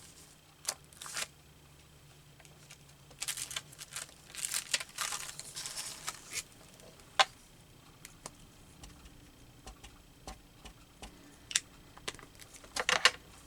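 Paper and small craft supplies being handled on a tabletop: stretches of paper rustling and crinkling, with a few sharp taps and clicks.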